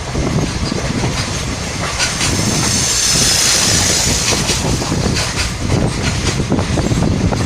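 Moving passenger train heard from on board: steady rumble of the running gear with the clatter of wheels over rail joints, and a hiss that swells for a couple of seconds near the middle.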